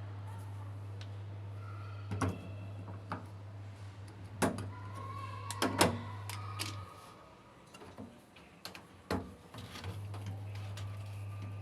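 A few sharp knocks and clicks of hard parts being handled, with a brief squeak partway through, over a steady low hum that drops out for about two seconds after the middle.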